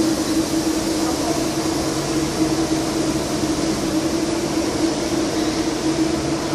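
Passenger train standing ready to depart, its equipment humming steadily with one held mid-pitched tone over an even whirr like fans.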